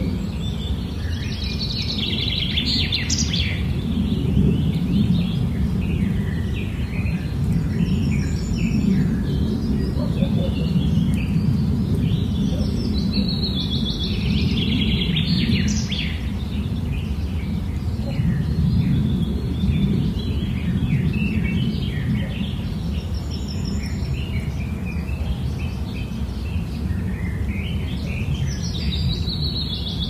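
Small birds chirping and singing in scattered phrases, heaviest near the start, in the middle and near the end, over a steady low background rumble.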